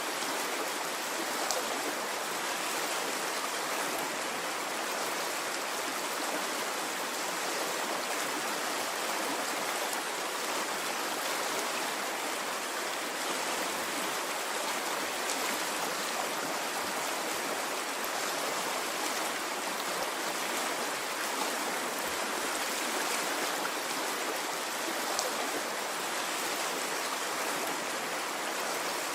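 Stream water flowing, a steady even rush with no swells.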